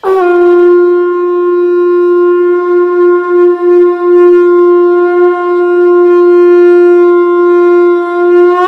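One long, steady note blown on a horn, starting suddenly and held for over eight seconds with a slight waver in loudness partway through.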